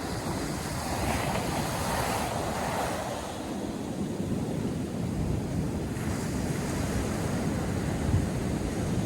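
Sea surf breaking and washing on a beach, with a steady low rumble of wind on the microphone. One wave's wash swells about a second in and fades after three seconds.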